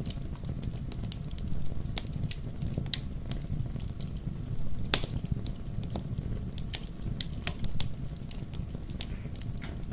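Wood fire crackling in a fireplace: irregular sharp pops and snaps over a low steady rumble, the loudest pop about five seconds in.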